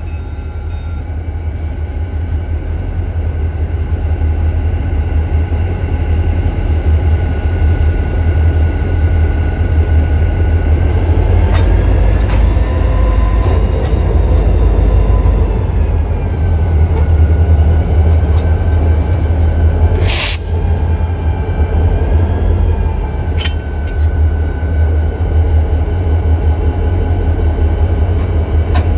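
EMD diesel locomotives of a freight train running, with a deep engine rumble that grows louder over the first few seconds. Steady higher tones ride on top and dip and rise in pitch in the middle. There is a sharp crack about two-thirds of the way through and a smaller one a few seconds later.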